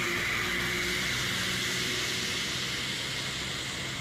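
Steady road and engine noise of a moving car, with no impact.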